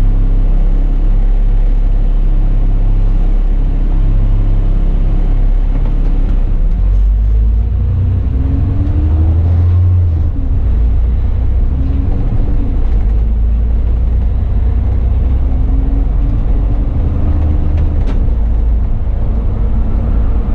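Bus engine running while the bus is driven, a steady low rumble at first; from about seven seconds in its pitch rises and falls a few times as the bus changes speed, then holds steady again.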